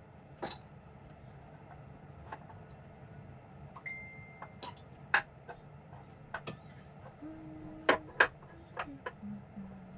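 Scattered clinks and knocks of dishes and utensils being handled, with a short steady high beep about four seconds in.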